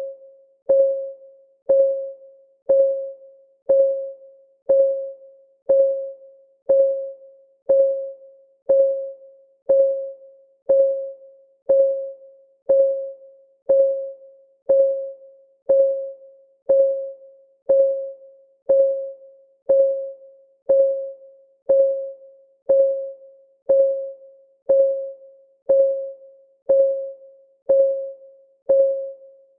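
Clock-ticking sound effect of a countdown timer: a steady tick once a second, each tick a short pitched tock that fades quickly.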